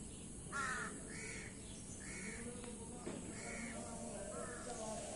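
A bird calling outdoors: five short, harsh calls about a second apart, the first the loudest.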